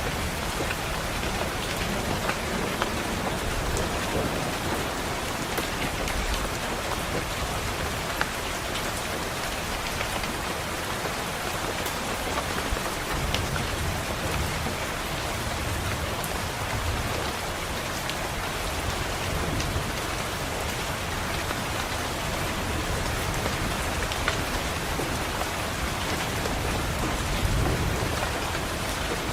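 Steady rain pattering on a window pane, with low rolling thunder rumbles swelling about halfway through and again near the end.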